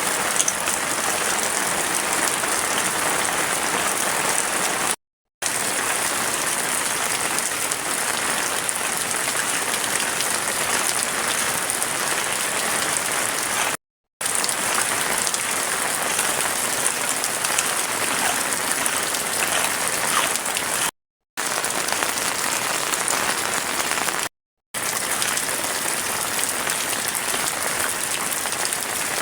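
Heavy rain falling, a steady dense hiss that drops out to silence for a moment four times.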